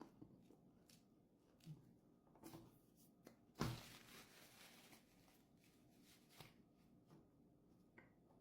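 Quiet eating sounds: faint mouth and handling clicks from someone eating a sandwich, with one louder, short rustle about three and a half seconds in.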